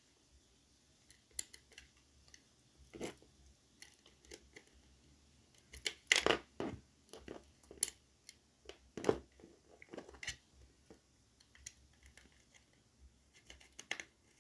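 Scattered small clicks, taps and rustles of a DT830D digital multimeter's plastic parts being handled during reassembly, with a louder cluster of handling noise about six seconds in.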